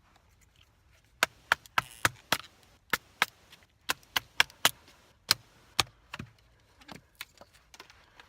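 Dry deadwood being split into finer pieces for fire tinder: about a dozen sharp wooden knocks in quick succession, roughly three a second, then a few softer taps near the end.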